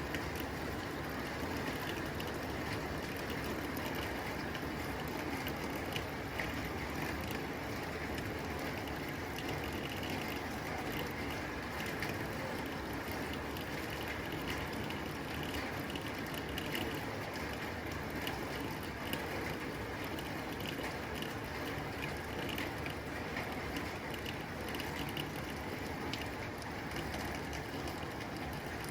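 Steady rain on a tin roof: a dense, even hiss with many small, sharp drop impacts ticking on the metal.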